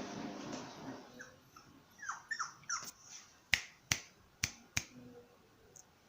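A puppy giving a run of short, high, falling whines and yelps, followed by four sharp clicks.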